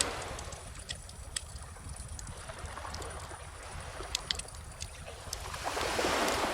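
Gentle ocean waves washing onto the shore, one swelling and falling away near the end, over a steady low rumble, with scattered sharp crackles and pops from a wood bonfire.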